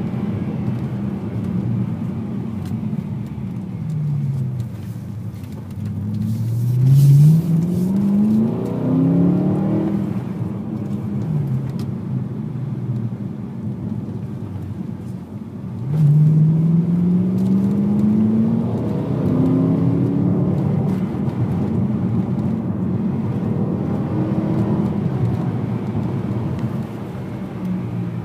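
BMW M3 engine heard from inside the cabin, pulling hard twice with the revs climbing, and dropping back off the throttle in between, over steady road noise.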